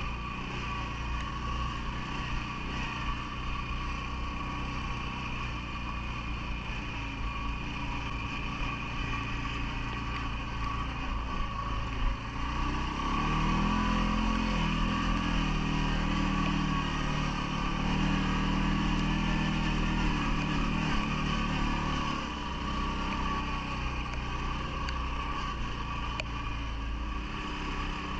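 CFMoto ATV engine running, its revs climbing about halfway through and holding higher and louder for several seconds before easing back down.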